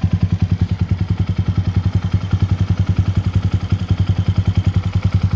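2022 Honda Monkey's 125 cc single-cylinder four-stroke engine idling steadily through a Yoshimura RS3 exhaust, an even, deep put-put of about a dozen pulses a second with no revving.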